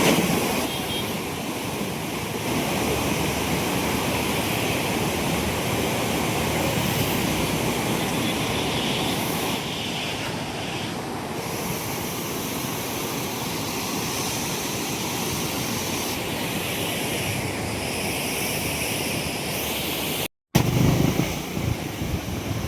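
Steady rush of fast-flowing floodwater, an even noise without pauses. Near the end it cuts abruptly to a vehicle engine.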